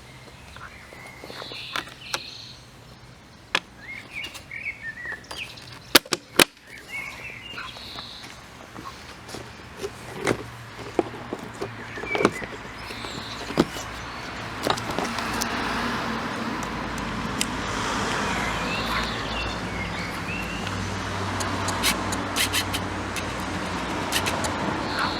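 Birds chirping over outdoor ambience, with a few sharp clicks about six seconds in. In the second half a motor vehicle's engine noise builds up and holds steady, becoming the loudest sound.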